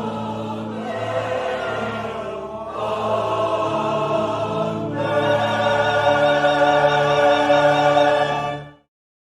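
Choir singing sustained chords in several parts, swelling louder partway through, then stopping abruptly near the end.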